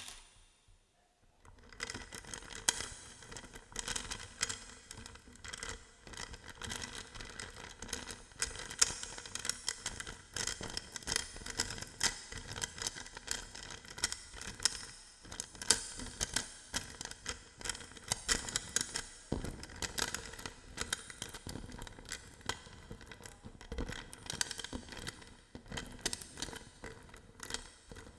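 Close-miked ASMR trigger sounds of hodo balls being handled: a dense run of quick clicks, crackles and rustles that starts about a second and a half in and goes on with irregular louder clicks.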